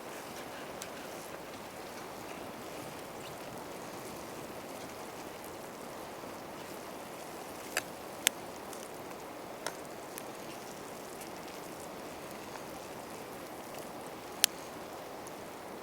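Wood campfire burning with a steady hiss and a few sharp pops, the loudest about 14 seconds in.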